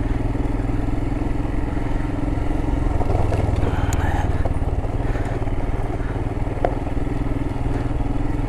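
Royal Enfield Himalayan's single-cylinder engine running steadily as the motorcycle rides along at an even speed.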